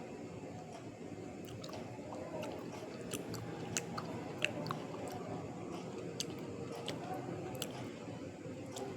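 A person chewing crunchy white pieces (eaten clay or chalk), with scattered sharp crunches, several a second at times, over a soft wet chewing sound.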